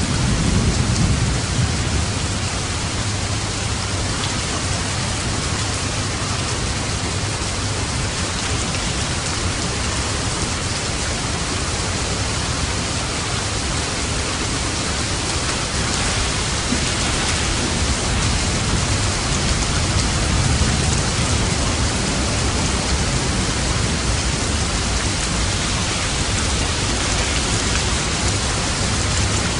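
Steady heavy rain, with low rolls of thunder rumbling about a second in and again around twenty seconds in.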